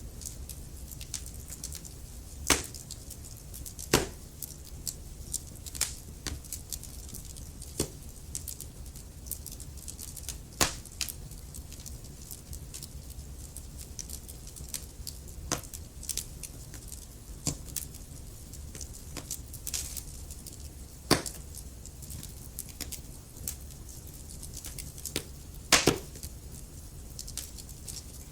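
Wood logs burning in a fireplace: a low steady rumble of flame with irregular crackles and sharp pops, a few of them louder, the loudest a little before the end.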